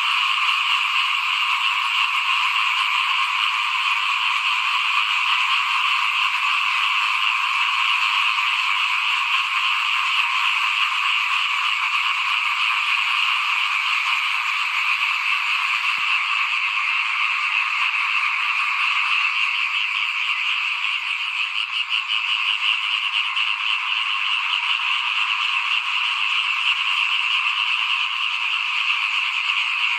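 A dense chorus of small frogs (khiat) calling, many overlapping croaks merging into one steady, unbroken trill.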